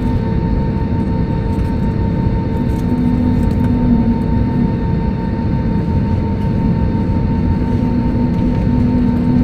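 Steady cabin noise of an Airbus A320neo with its engines running on the ground: an even rumble with a constant hum that swells and fades a few times.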